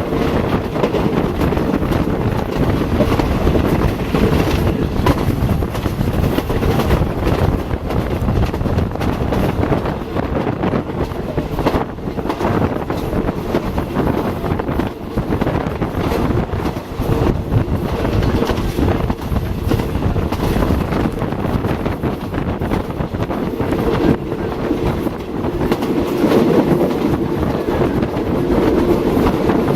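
Train running along the track, a steady loud rumble with the clicking of the wheels over the rails throughout and a hum that swells near the end.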